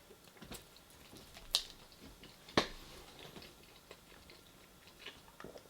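A person eating in a small room: quiet chewing with a scattering of sharp clicks and smacks. The loudest comes about two and a half seconds in, and another sharp one about a second before it.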